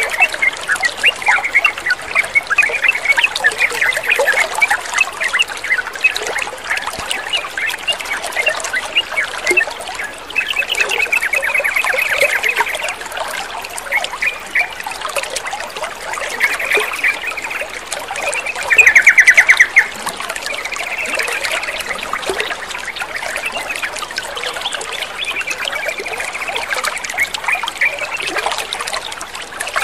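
Yellow-vented bulbul (trucukan) chirping and giving fast, chattering trills over steadily trickling water. The loudest is a rapid trill about two-thirds of the way through.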